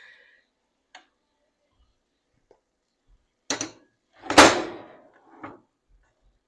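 Kitchen clatter: a light click about a second in, then three knocks about 3.5, 4.5 and 5.5 seconds in, the middle one loudest with a short ring-out.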